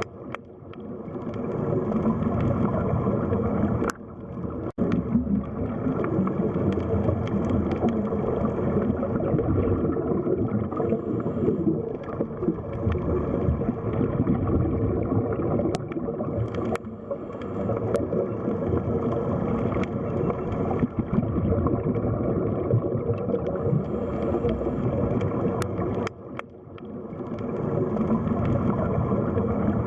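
Underwater sea ambience: a muffled, low rush of water with gurgling, dropping away sharply a few times and swelling back up, with a few faint clicks.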